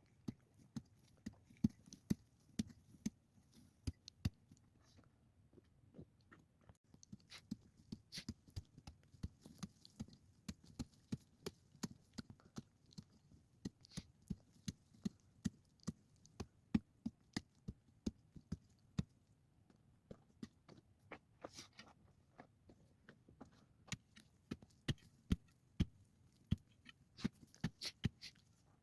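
A run of irregular sharp knocks and taps, one to three a second, with a short lull about six seconds in.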